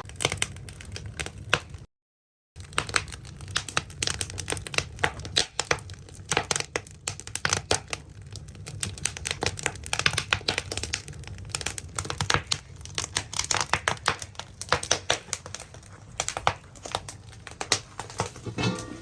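Firewood burning in the firebox of a traditional Korean ondol (gudeul) heating system: dense, irregular crackling and popping over a low, steady rumble. The sound drops out briefly about two seconds in.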